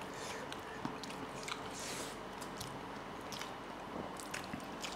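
Faint chewing and biting sounds of people eating pork curry and rice by hand, with scattered small clicks.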